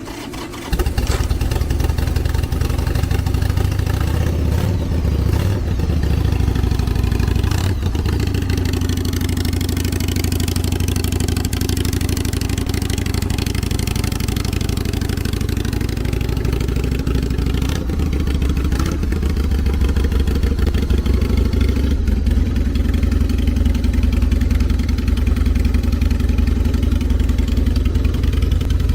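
Carbureted Harley-Davidson Evolution Sportster's air-cooled V-twin running on a cold winter start. It gets suddenly louder less than a second in, then runs steadily.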